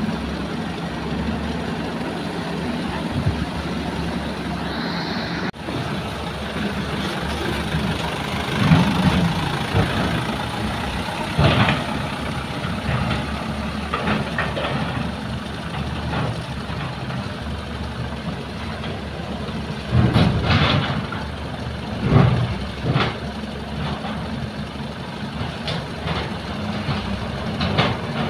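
Heavy diesel engines of excavators and a dump truck running steadily at a sand-loading site, with several short louder surges now and then.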